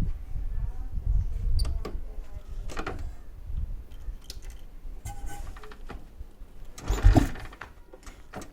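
Old Royal Enfield Bullet's single-cylinder engine running through an Indori aftermarket silencer, a low uneven thump that fades over the first few seconds, with a short louder burst near the end.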